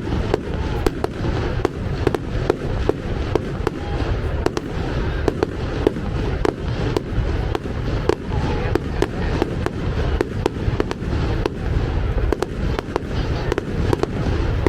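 Fireworks display: a continuous barrage of sharp bangs, several a second, over a heavy low rumble.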